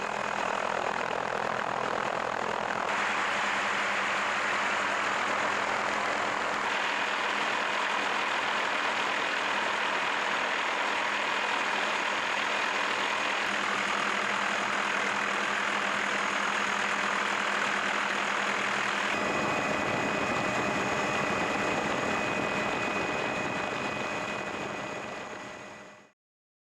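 Steady engine drone with faint whining tones. Its character changes abruptly three times, and it fades out shortly before the end.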